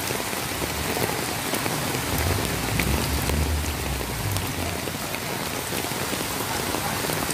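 Heavy rain pouring steadily, a dense even hiss with scattered tiny ticks of drops striking. A low rumble swells for a couple of seconds in the middle.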